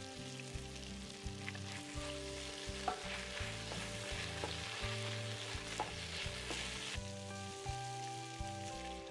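Food sizzling as it fries in hot oil, loudest from about two seconds in to about seven seconds, over background music with a steady beat.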